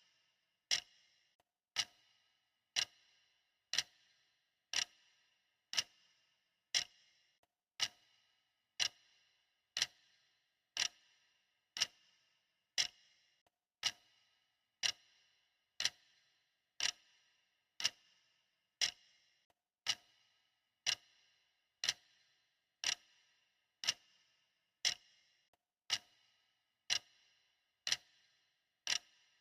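Clock ticking steadily, one tick about every second, each a sharp click with a short ring.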